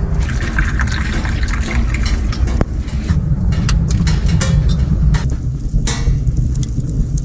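A loud, steady low rumble with scattered crackles and clicks over it.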